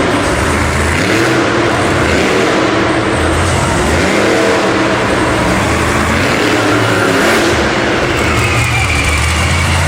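Monster truck engine revving hard and running loud, its pitch rising and falling as the throttle is worked.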